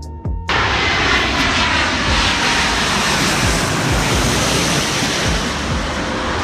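Airliner engines running, a loud steady rush with a faint whine in it, cutting in abruptly about half a second in.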